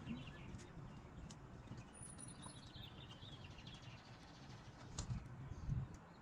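Faint bird chirps and twittering in outdoor ambience, with a thin high whistle about two seconds in. There are low rumbles and two dull thumps near the end.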